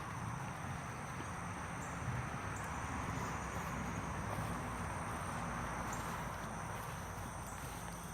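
Steady outdoor background with insects chirring in an even, high drone, over a low rustling haze.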